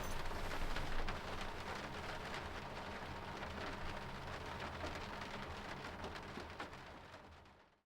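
Heavy rain falling on a truck camper, a dense patter of drops that fades away near the end.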